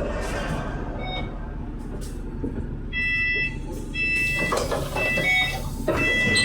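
Inside a double-decker bus: the engine runs with a steady low rumble, and about three seconds in an electronic warning beep starts sounding roughly once a second, the bus's door warning as the doors work, with a few mechanical knocks near the end.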